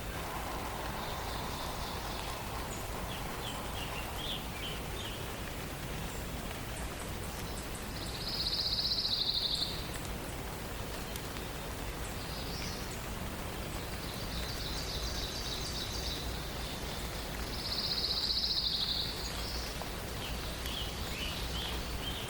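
Forest songbirds singing over a steady hiss. Two loud, rapid, high trills come about 8 and 18 seconds in, with softer chips and short phrases between them.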